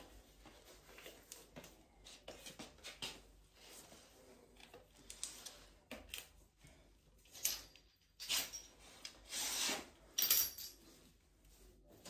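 Scattered clicks and rubbing of metal parts and tools handled during a washing machine drum and bearing repair, with a few louder scraping strokes in the second half.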